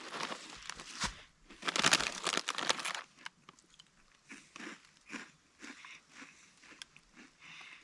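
A person chewing and crunching extra Flamin' Hot Cheetos, crunchy cheese-flavoured corn snacks. The crunching is loudest from about two to three seconds in, then thins to scattered softer chews.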